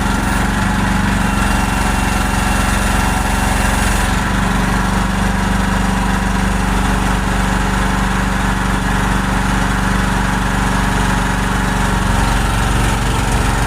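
Chinese mini excavator's engine running steadily with its hydraulics working on freshly changed hydraulic fluid; the tone shifts slightly about four seconds in.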